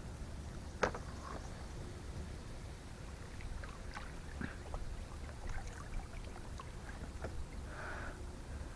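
Scattered light knocks and clicks of gear being handled in a kayak, the sharpest about a second in, over a low steady rumble, with a short hiss near the end.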